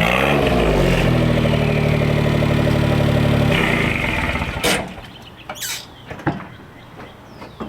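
1999 Suzuki Carry kei truck's small three-cylinder engine, heard through its loud custom exhaust, dropping back to a steady idle and then switched off about three and a half seconds in. A couple of sharp knocks follow.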